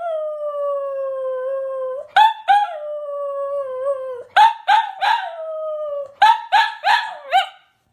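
A dog howling: long howls that slide down in pitch, each begun by two or three sharp yelps. The howls come three times, and a run of four quick yelps follows near the end.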